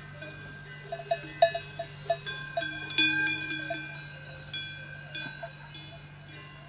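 Metal bells clinking in a quick, irregular run of strikes about a second in, leaving several ringing tones that fade slowly, over a steady low hum.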